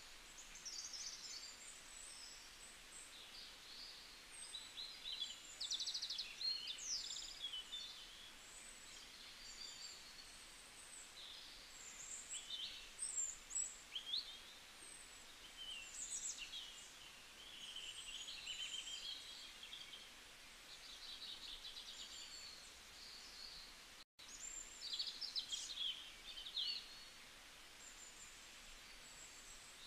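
Several birds chirping and singing at once: short chirps, quick trills and rapid repeated notes, with a faint steady hiss beneath. The sound cuts out for an instant once, about four-fifths of the way through.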